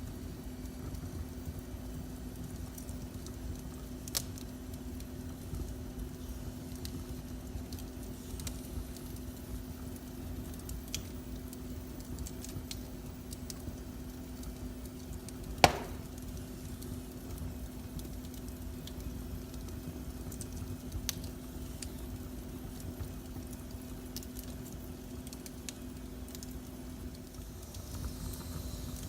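Wood fire crackling in a fireplace, with scattered small pops and one loud, sharp pop about halfway through, over a steady low rumble and a faint steady hum.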